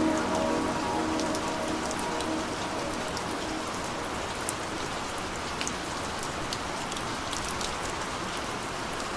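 Steady rain falling on a surface, with scattered sharp drop ticks. The last of a slowed, reverb-heavy music track fades out right at the start.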